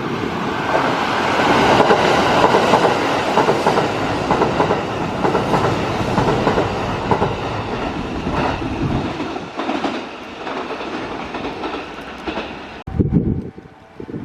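Kintetsu Kyoto Line electric train running through the station, its wheels clicking over the rail joints, loudest about two seconds in and then fading away. Near the end the sound changes abruptly to wind buffeting the microphone.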